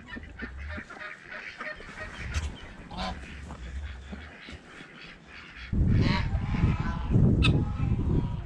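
Backyard birds calling, faint at first, then a loud, dense chorus of calls from about six seconds in.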